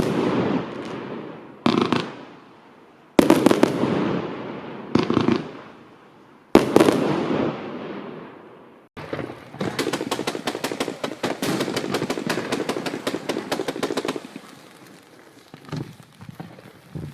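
Display firework cakes going off: about five loud bangs in the first seven seconds, each trailing away. Then comes about five seconds of dense, rapid crackling cracks, then a few scattered pops.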